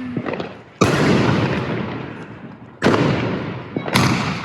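Fireworks going off: three loud bangs, about a second in, near three seconds and near four seconds, each trailing off in a long fading rumble.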